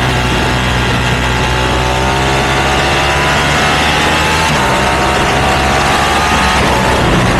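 Ducati V2 twin-cylinder engine running through a Termignoni exhaust, its pitch climbing slowly for several seconds before dropping back near the end.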